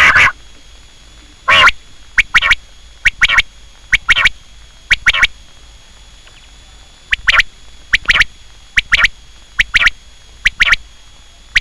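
Quail calling: short, sharp notes repeated over and over, mostly in quick pairs about one pair a second, with a pause of about two seconds midway.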